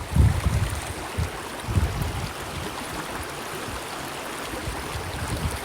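A stream running with a steady rushing hiss, with two brief low rumbles in the first two seconds.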